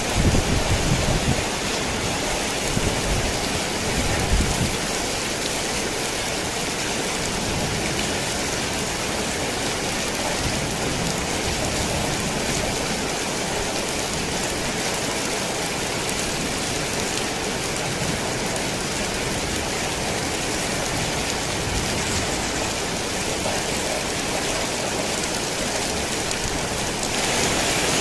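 Heavy rain falling on a tin roof, a dense steady hiss of drops, with low thunder rumbling through the first few seconds. Near the end the rain turns a little louder and brighter.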